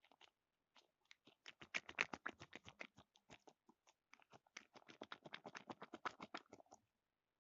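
A dog eating close up: two runs of quick, crunchy mouth clicks, about eight a second, with a short pause between them.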